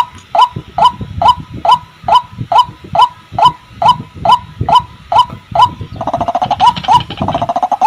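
White-breasted waterhen (ruak-ruak) calling, a short falling note repeated about twice a second. A fast rattling chatter joins in about six seconds in, with the repeated notes still running through it.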